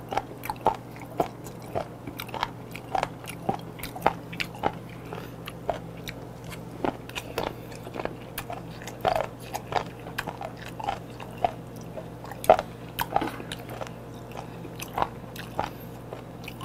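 Close-miked chewing of raw chicken feet in spicy seasoning: irregular crunches and wet clicks, about two or three a second.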